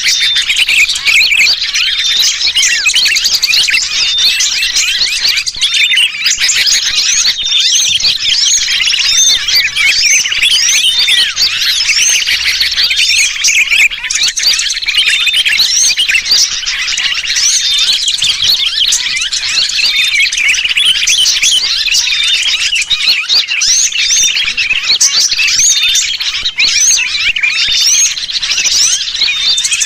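Bird-trapping lure recording: a dense, unbroken tangle of high chirps from a flock of agitated small birds mixed with the distress calls of a sooty-headed bulbul (kutilang), with a short high steady note recurring every few seconds.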